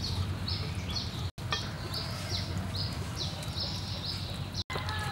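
Bird chirping in an even series of short high notes, about two or three a second, over a steady low hum. The sound drops out for an instant twice.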